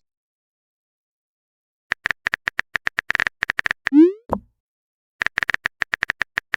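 Phone keyboard typing sound effect: quick runs of sharp clicks. About four seconds in comes a short rising 'bloop' message sound with a soft thud after it, and a second run of typing clicks starts near the end.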